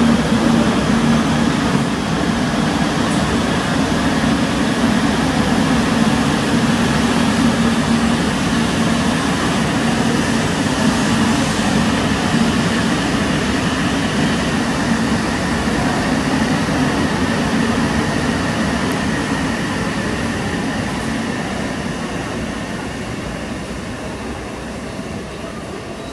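Shinkansen train running on the station tracks: a steady, loud noise with a low hum and a faint high tone, fading gradually over the last several seconds as the train moves away.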